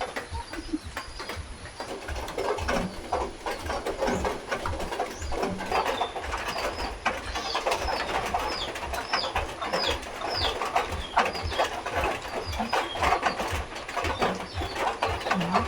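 Birds calling, with a series of short falling chirps through the middle, over many irregular light taps and knocks.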